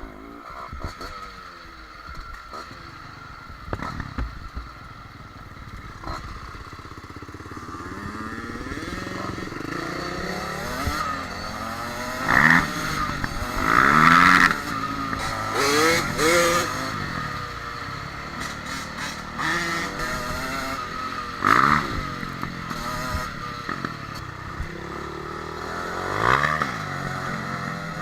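Yamaha dirt bike engine running on a trail, its pitch rising and falling as the throttle is worked, with several sharp loud revs.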